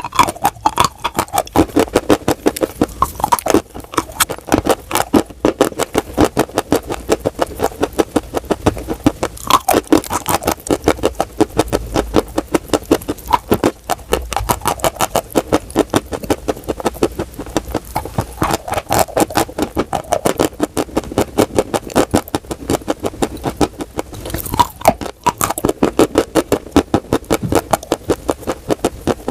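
Dry chalk being bitten and chewed up close: a quick, continuous run of sharp, dry crunches, several a second.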